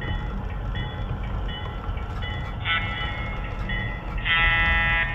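Sound system of a Broadway Limited SW7 diesel switcher model: a low engine rumble with the bell ringing steadily, then a short horn toot about two and a half seconds in and a longer, louder horn blast near the end.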